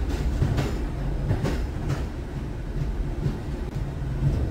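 Recorded sound from inside a moving train carriage: a steady low rumble with a few faint knocks from the running gear. It is heavily modulated but wide in range.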